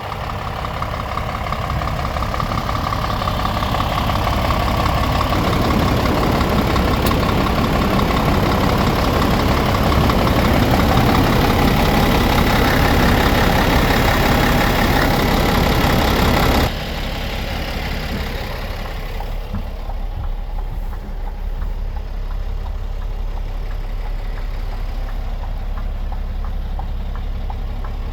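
Scania R410 truck's 13-litre six-cylinder diesel engine running. It grows louder over the first ten seconds and holds there. About 17 seconds in it drops suddenly to a steadier, quieter idle.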